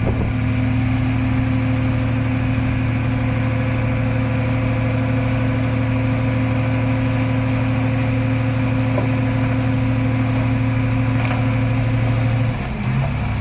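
Heavy machine's diesel engine running at a steady speed, one constant note that holds for about twelve seconds and then drops away near the end.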